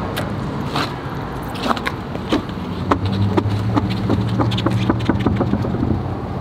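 Irregular metallic clicks and scrapes from working the car jack and wheel during a tire change, over a steady low engine hum.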